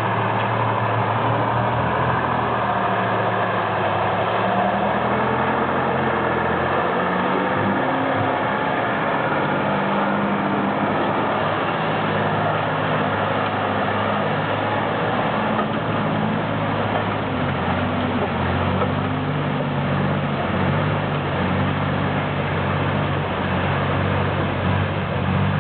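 Ural truck's engine labouring off-road, its pitch rising and falling again and again as the load and revs change.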